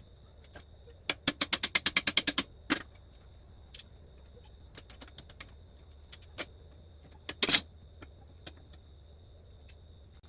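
Ratchet wrench clicking in a quick run of about ten sharp clicks, followed by scattered light taps and one louder metallic knock a few seconds later, as fasteners are worked loose on a kart's fuel tank mounting.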